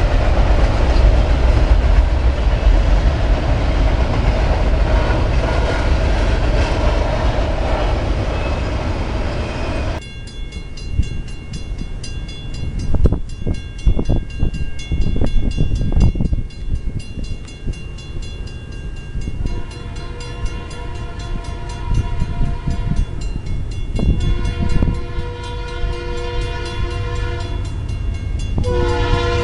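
Train rolling by with a dense, steady rumble that cuts off abruptly about a third of the way in. Quieter locomotive sound with a few sharp knocks follows, then a diesel locomotive horn sounds in long blasts from about two-thirds of the way through, loudest at the end.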